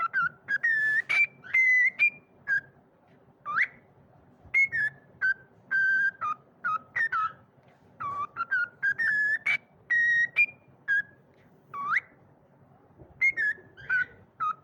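Pet bird whistling: a string of short whistled notes and quick upward-sliding whistles, one after another with brief pauses between them.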